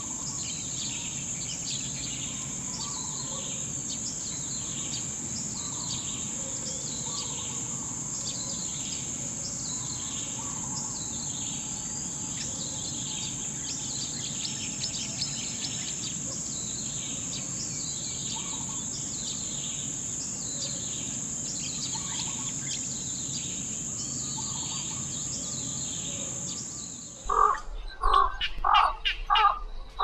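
Bird chirps and calls, short falling notes repeating about once a second, over a steady high-pitched whine and a low hum. Near the end they give way to a louder, lower call repeated about twice a second.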